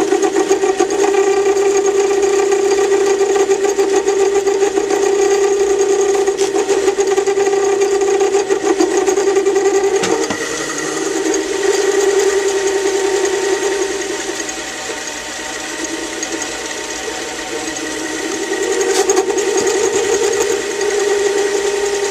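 Metal lathe running steadily with its cutting tool taking a turning pass on a small metal part. The sound is a steady hum with a high whine, and it grows quieter for a few seconds about two-thirds of the way through before picking up again.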